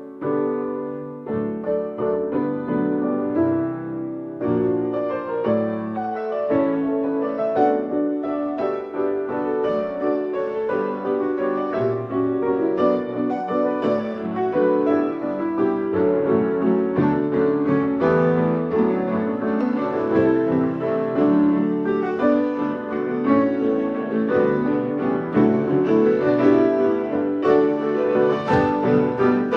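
Instrumental music with piano to the fore, playing a stream of struck notes.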